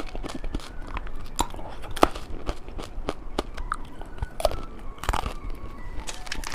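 Hard candy being bitten and chewed close to the microphone: irregular sharp crunches, several a second.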